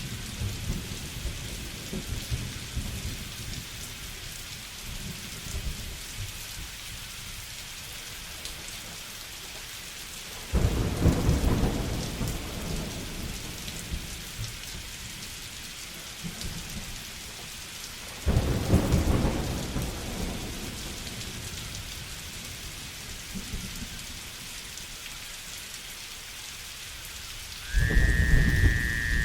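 Steady rain falling, with three sudden claps of thunder about eight seconds apart, each rolling off over a couple of seconds. A brief high whistling tone comes in with the last clap near the end.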